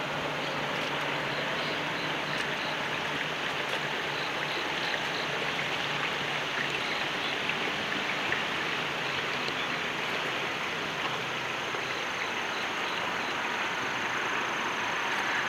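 Steady rush of running water, with faint high chirps repeating over it.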